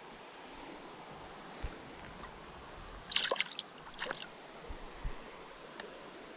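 Creek water running steadily, with two short bursts of sharp splashing or scuffing noise about three and four seconds in, the loudest sounds here, and a few faint knocks.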